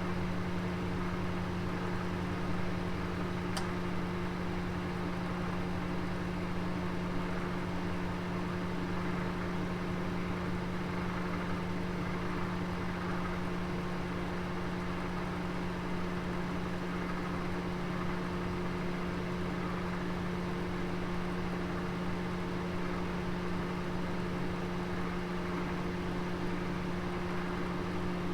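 Electric oven running with a steady, unchanging hum over a soft hiss; a faint tick about three and a half seconds in.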